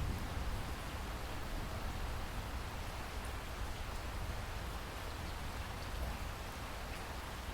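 Steady rain falling, a dense even hiss with faint scattered drop ticks, over a constant low rumble.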